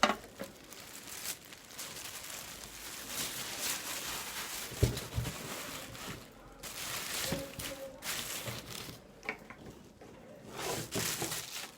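Packaging being handled and unwrapped, rustling and crinkling in uneven spells, with a couple of light knocks about five and seven seconds in.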